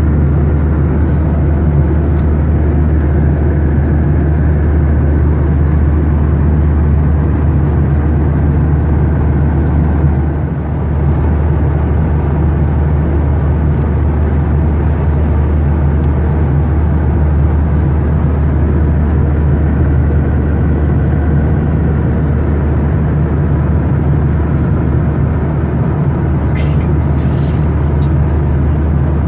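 Steady cabin noise of a Boeing 737-900ER airliner in flight: a loud, even rumble of its CFM56 jet engines and rushing air, heard from a window seat inside the cabin. The noise dips briefly about a third of the way in.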